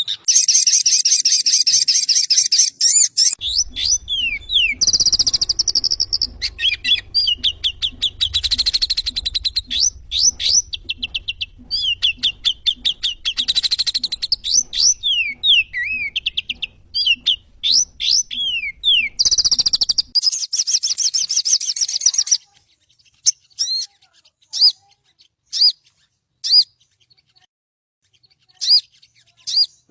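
Sogon bird song played as a masteran recording: fast high chirps, trills and quick slurred notes that run densely for about the first twenty seconds, then single short chirps with pauses between them.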